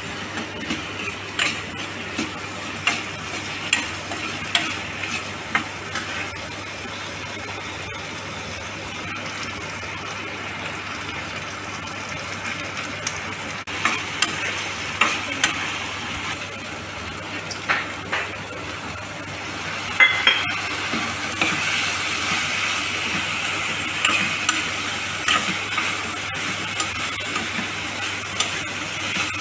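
Vegetables frying in oil in a pan with a steady sizzle, while a steel spoon stirs them, clinking and scraping against the pan every second or so. The sizzle grows louder about twenty seconds in.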